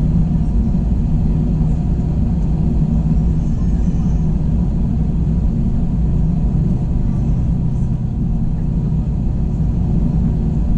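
Steady cabin drone of an Airbus A321 in flight: engine hum and airflow rumble, even throughout, with a low steady hum underneath.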